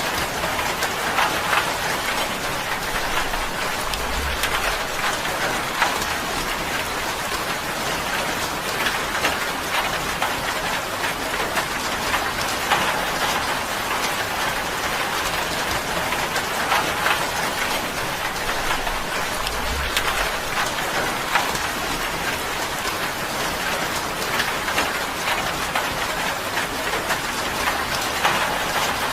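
Steady rain drumming on a tin roof, a dense patter of drops on the metal, with a brief low thud twice.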